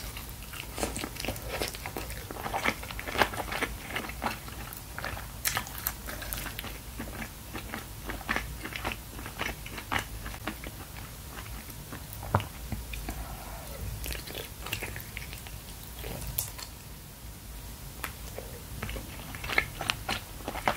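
Close-miked chewing of a bite of braised spicy chicken: wet mouth clicks and smacks, busiest in the first half, thinning out in the middle and picking up again near the end.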